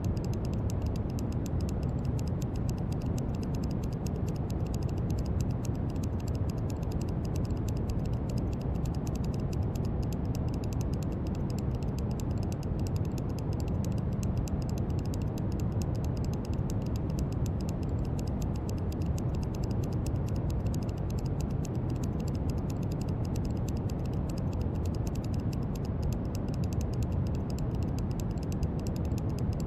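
Steady brown noise: a deep, even hiss weighted toward the low end, with a faint fast crackle of tiny clicks over its upper part.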